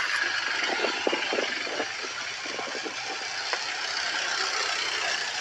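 An engine idling steadily under a dense outdoor hubbub, with a few short irregular knocks or clatters in the first few seconds.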